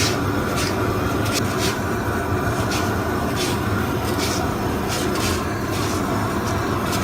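Heavy machinery running steadily, a dense mechanical noise with a low hum and faint regular clicks.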